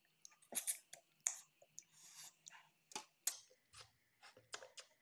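Close-up eating sounds of a person chewing a mouthful of rice and fish curry: irregular wet mouth clicks and smacks, a few sharp ones standing out.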